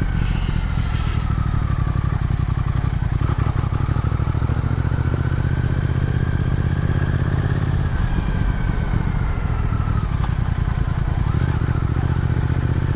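Motorcycle engine running steadily under way while riding, its note rising and falling gently.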